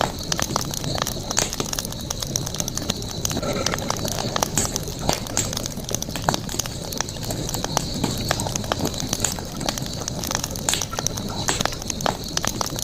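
Campfire crackling, with many irregular sharp pops and snaps over a steady bed of fire noise and a thin, steady high-pitched tone behind it.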